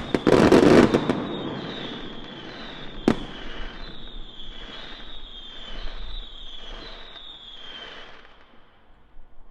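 Fireworks going off: a loud burst with crackling at the start, then a single sharp bang about three seconds in. Through the rest there is a run of short falling whistles about once a second, fading out near the end.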